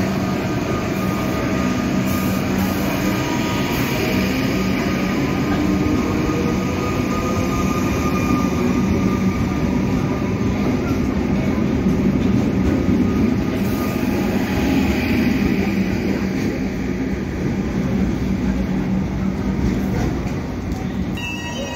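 Stainless-steel suburban electric train running alongside the platform, a steady rumble of wheels and motors with a faint whine that grows louder in the middle. Just before the end a steady chord of several tones starts up.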